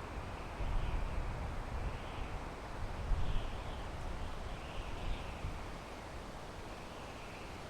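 Wind blowing through pine trees: a steady hiss, with gusts rumbling low about a second in and again around three seconds in.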